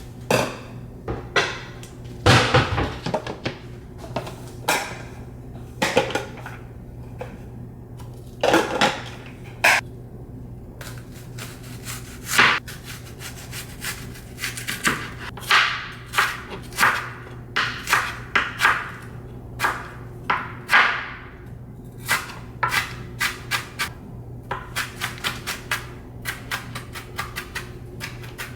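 Household objects being handled: irregular knocks, taps and short scrapes, coming in quick runs near the end, over a steady low hum.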